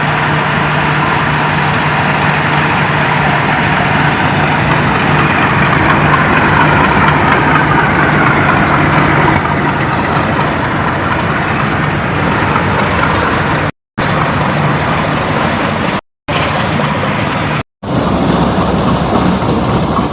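Diesel locomotive running with a steady low hum under a broad rushing noise of the moving train, which swells around the middle; the sound drops out completely three times near the end.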